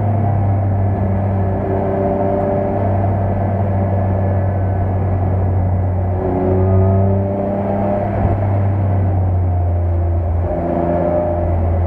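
BMW E46 M3's straight-six engine heard from inside the cabin, its revs rising and falling as it is driven hard around the track, over steady tyre and road noise.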